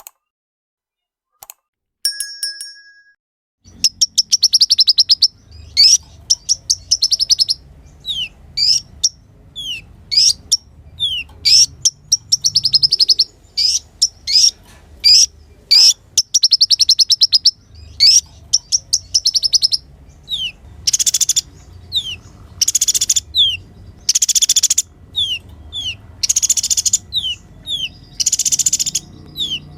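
Kolibri ninja sunbird singing: fast high-pitched trills broken by short downward-sliding chirps, repeated in quick phrases. The song starts about four seconds in, after a brief electronic beep.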